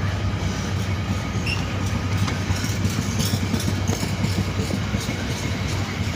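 Diesel train running past with a steady low engine drone and rail noise.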